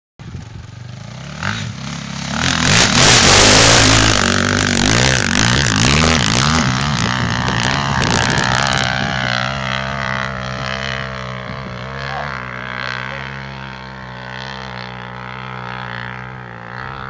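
2006 KTM 450 EXC dirt bike's four-stroke single-cylinder engine revving hard, its pitch rising and falling as the throttle is worked. It is loudest a few seconds in, then grows quieter and steadier toward the end.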